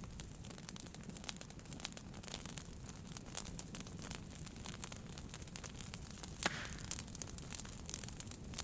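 Wood fire burning in a fireplace: a steady low rumble of flames with irregular sharp crackles and pops, one louder pop about six and a half seconds in.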